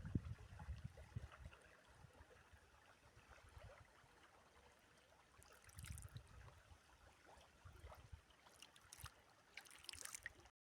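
Near silence: faint outdoor ambience with a few low rumbles and some soft clicks, cut off by a moment of dead silence near the end.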